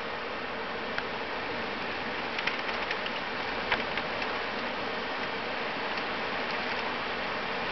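Steady hiss of rain falling in a thunderstorm, with a few faint ticks of drops striking close by between about two and four seconds in.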